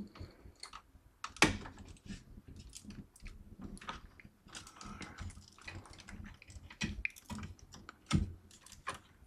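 Irregular light clicks and rustling of PC power and data cables being bundled and handled inside a small computer case, with two sharper clicks, one about a second and a half in and one about eight seconds in.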